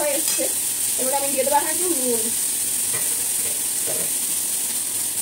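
Steady sizzling of chopped potatoes, onion and garlic frying in oil in a steel kadai, stirred with a spatula. A brief voice is heard about a second in.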